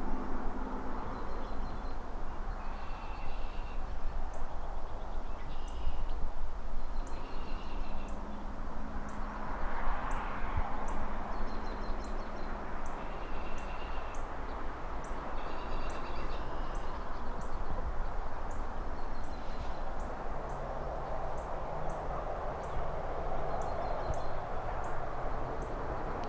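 City traffic heard from a distance: a steady hum with cars swelling past about ten seconds in and again near the end. Birds call over it in short bursts, and a faint high chip repeats about once a second.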